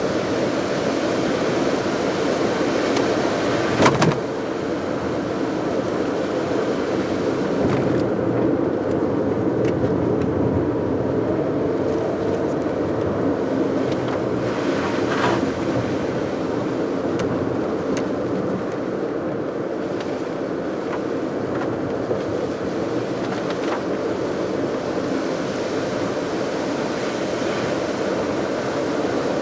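A car driving at steady speed, its road and engine noise running as an even hum, with a brief knock about four seconds in.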